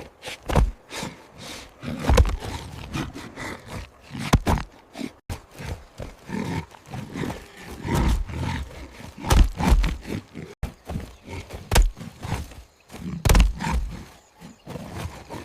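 Animal grunts and roars among irregular sharp clicks and heavy low thuds, coming in short uneven bursts.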